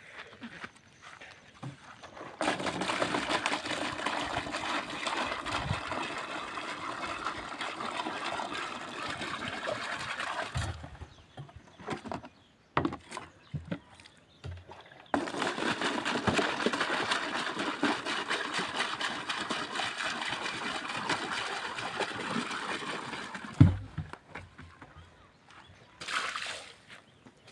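Water poured out of a container onto a floor to rinse it, in two long pours of about eight seconds each, with a short gap between them, then a thump near the end.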